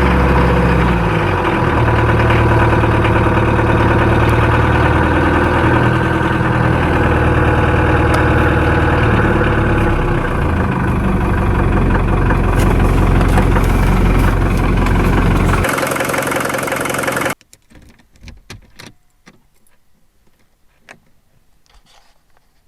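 Older Mercedes-Benz diesel engine running steadily just after a cold start, loud and even. About seventeen seconds in the sound cuts off suddenly, leaving only faint clicks and knocks.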